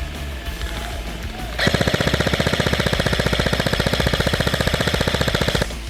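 Airsoft gun firing one long full-auto burst of rapid, evenly spaced shots. The burst starts about a second and a half in, lasts about four seconds and stops suddenly near the end.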